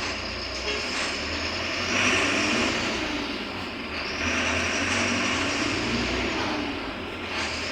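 Diesel engine and drivetrain of a Mercedes-Benz OF-1721 Bluetec 5 city bus heard from on board while driving. The engine note swells about two seconds in, eases off, then builds again.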